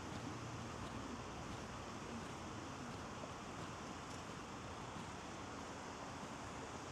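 Steady outdoor ambience beside a city river: an even rush of noise with no distinct events standing out.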